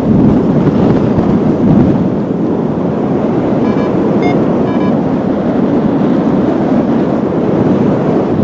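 Strong wind buffeting the microphone in paraglider flight: loud, steady rushing noise. A few short, high beeps come about four seconds in.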